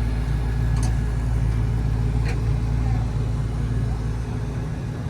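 A car engine running steadily with a deep low rumble, with two faint ticks about one and two seconds in.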